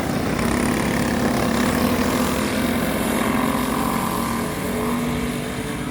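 Small racing go-kart engines running at speed during a race, a steady buzzing drone whose pitch shifts slightly as the karts go around.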